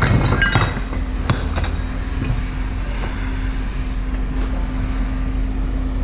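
Scrap metal pieces clinking and knocking as they are handled, several strikes in the first second and a half, over a steady low hum.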